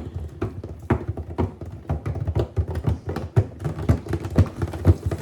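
A calculator tumbling in the drum of an LG WM6700HBA front-loading washer mid-wash, knocking irregularly against the drum several times a second.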